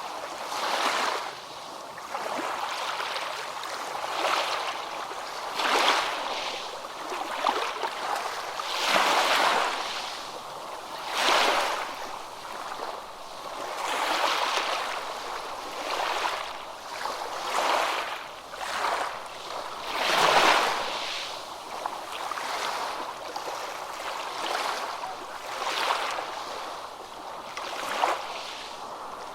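Ocean waves breaking and washing in, in repeated swells every two to three seconds.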